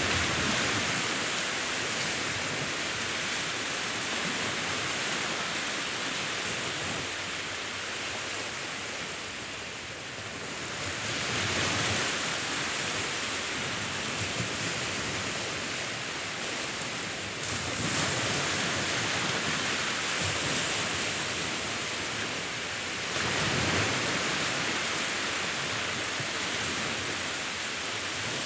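Sea waves washing ashore, a steady hiss of surf that swells louder four times as waves break.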